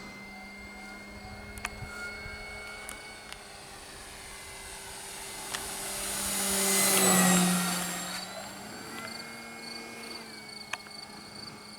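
Electric motor and propeller of an E-flite Cessna 150 Carbon-Z RC plane in flight, a steady whine that grows louder to a peak about seven seconds in as it passes, its pitch dropping, then fades again.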